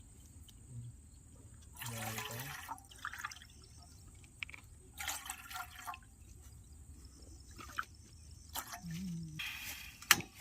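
Water splashing and trickling in a few short bursts, about every three seconds.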